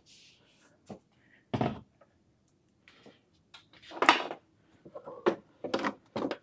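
Scattered knocks and clunks of a light panel being handled and propped on a chair, about five in all, the loudest about four seconds in.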